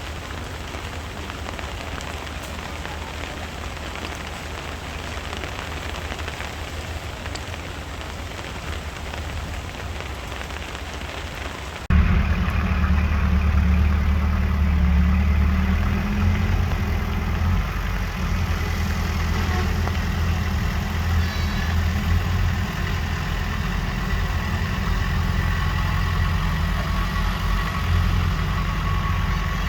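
A steady hiss over a low engine rumble, then, after an abrupt cut about twelve seconds in, the louder, steady running of a heavy construction machine's diesel engine, with a faint high whine.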